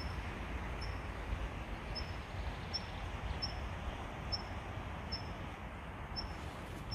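A small bird's short, high call, repeated about once a second, some nine times, over a steady low rumble.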